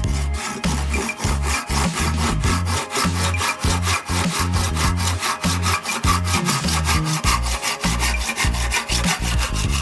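Hand saw cutting through wood in quick, even back-and-forth strokes, about five a second.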